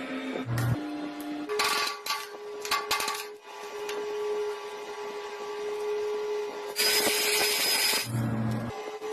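Small DC motor running with a steady high whine, with several sharp clicks in the first few seconds and a loud burst of hiss about seven seconds in.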